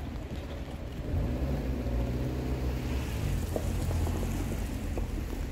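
Low, steady engine rumble of a motor vehicle that swells in about a second in, holds, and fades away near the end.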